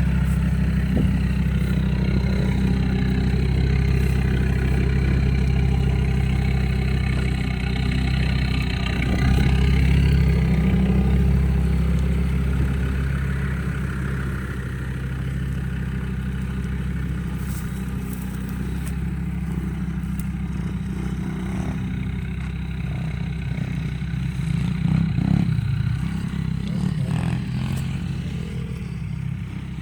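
Off-road SUV engine working hard under load at fairly steady revs, its revs rising about ten seconds in.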